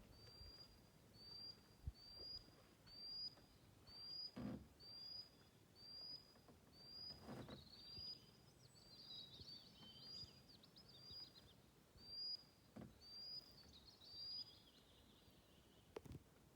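A small songbird repeating one short, high, slightly rising note a bit under twice a second, with a second bird twittering briefly around the middle. Faint, with a few soft knocks.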